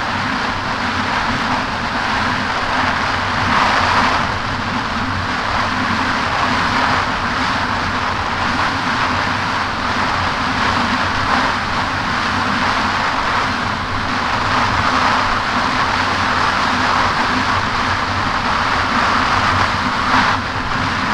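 Kawasaki Ultra 300X jet ski running steadily at speed over choppy water. Its engine's low drone sits under a constant loud rushing of water and wind, swelling a little now and then.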